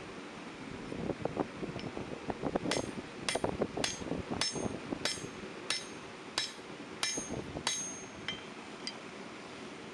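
Blacksmith's hammer forging hot steel bar on an anvil. Duller blows come first, followed by a steady run of ringing blows about one and a half a second, which stop near the end.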